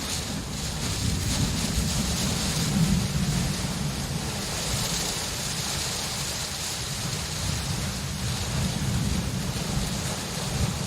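Steady rain hissing, with a low rolling rumble of thunder underneath that swells a couple of seconds in and again near the end.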